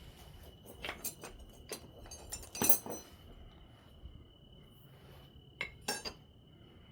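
Obsidian being flintknapped: a series of sharp, glassy clicks and ticks as the tool meets the edge and flakes come off, the loudest a little under three seconds in and two or three more close together near the end.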